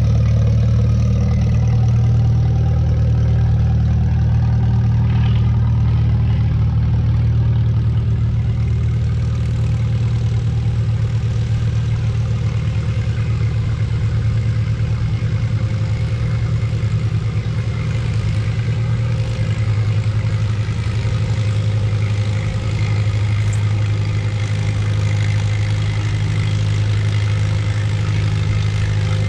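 Antique farm tractor engine running steadily, its low, even note shifting slightly about two-thirds of the way through.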